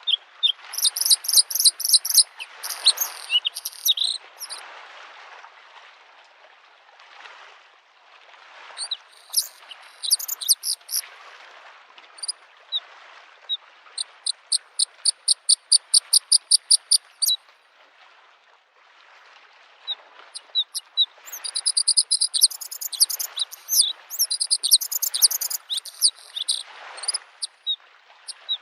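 Bluethroat singing in bursts of high, varied twittering phrases, one of them a rapid run of ringing notes about four a second, with pauses between. Under it, small waves lapping on a lakeshore in a soft, swelling wash.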